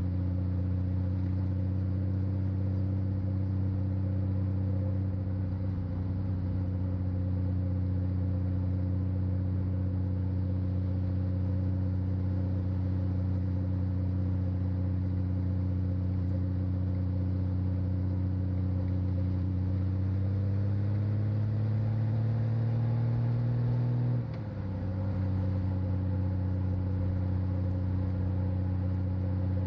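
Honda Valkyrie F6C's 1520 cc flat-six engine running steadily under way. About two-thirds of the way through the revs climb for a few seconds, then drop sharply at an upshift and settle again at a lower pitch.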